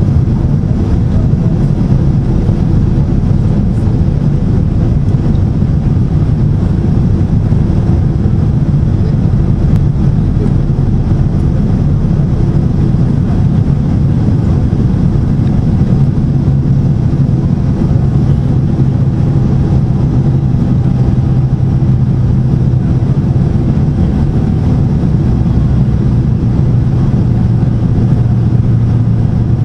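Boeing 767 airliner in flight on approach, heard from inside the cabin: a steady, loud rush of engine and airflow noise. A low hum grows stronger about halfway through.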